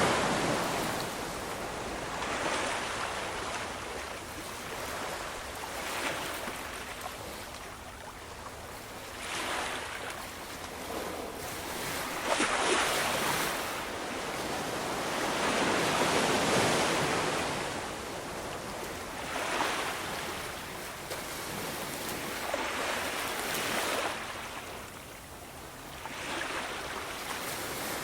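Ocean waves breaking and washing on a shore, the surf swelling and fading every few seconds.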